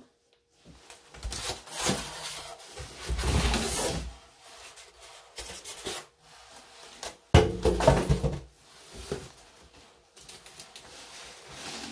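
Styrofoam packing being handled and pulled from the box: irregular rubbing and scraping, with a sharp knock about seven seconds in followed by more scraping.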